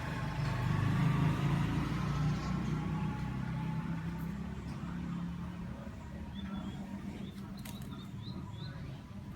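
A motor vehicle's low engine hum, loudest early on and fading away. Then, from about two-thirds of the way in, a run of short, high chirps from small birds.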